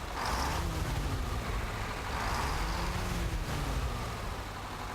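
Truck running, engine and road noise with a low engine pitch that slowly rises and falls.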